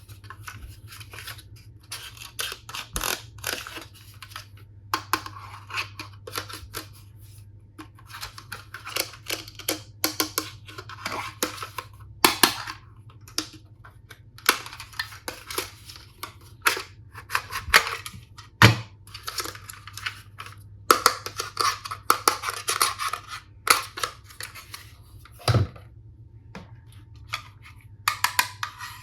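Hands unboxing toy tool sets: plastic packaging and toy parts crinkling, rustling and clicking in irregular bursts, with sharp snaps now and then.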